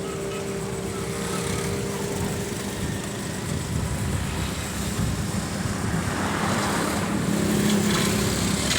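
Ford 4610 tractor's three-cylinder diesel engine running steadily, a little louder in the second half.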